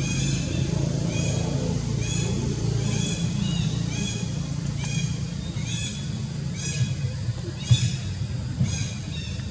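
Baby monkey crying in short, high-pitched squeals, repeated about one and a half times a second and fading a little near the end, over a steady low rumble.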